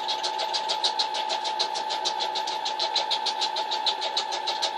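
Electric sewing machine running at a steady speed, stitching a seam in dog food bag material, with a fast, even clatter of about ten stitches a second over its motor hum.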